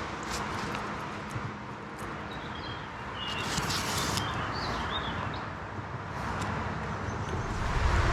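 A small bird chirping a series of short high notes about three to four and a half seconds in, over a steady outdoor hiss.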